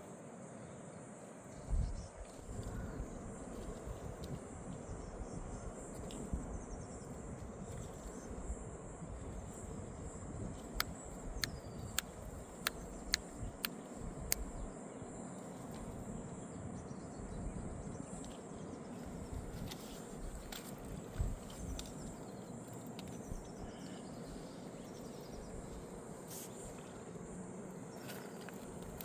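Outdoor ambience: a steady high insect trill over a low, even background noise, with a quick run of sharp clicks about halfway through.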